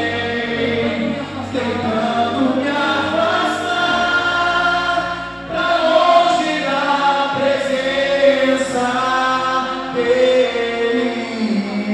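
Choir singing a gospel worship song over a steady accompaniment, with a short break about halfway through.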